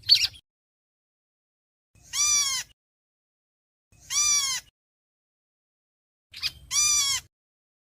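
Bird calling to its flock (the bird known in Vietnamese as chim héc xoan): three harsh calls about two seconds apart, each under a second long and arching up then down in pitch, after a short double call at the very start.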